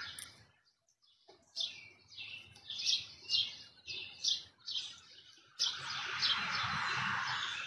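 A small songbird chirping: a run of short, high chirps, about two to three a second, lasting some four seconds. A steady outdoor hiss comes before and after the chirps, with a brief dead gap near the start.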